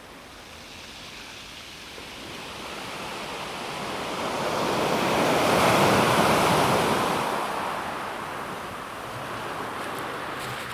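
A calm sea wave washes onto a pebble beach. One swell of surf builds to its loudest about halfway through, then draws back, with a few faint clicks near the end.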